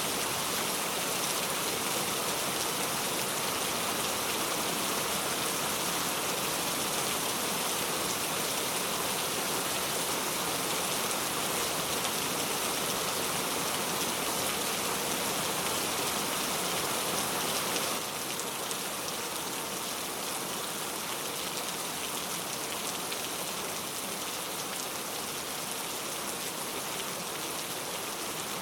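Steady rain falling, an even hiss of drops without thunder, which becomes slightly quieter all at once about 18 seconds in.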